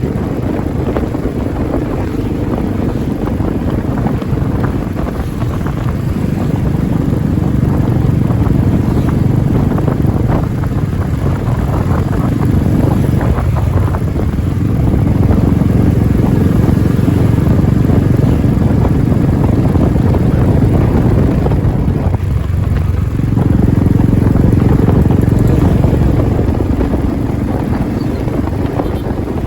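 Royal Enfield Classic 350's single-cylinder engine running under way, with a steady low thump and wind buffeting the microphone. The engine note drops away briefly twice, about halfway and about three quarters of the way through.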